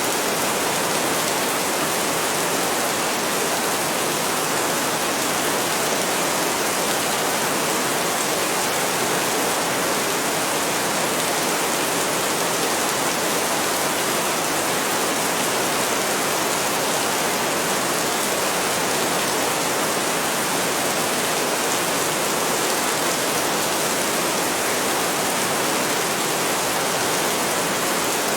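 Heavy rain falling steadily, an even, unbroken hiss with no thunder or other events.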